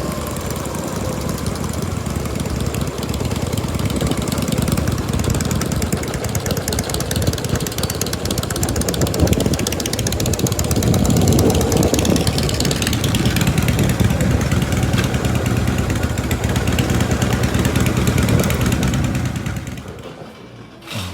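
Motorcycle engine running steadily, swelling a little about 4 and 11 seconds in, then dying away near the end.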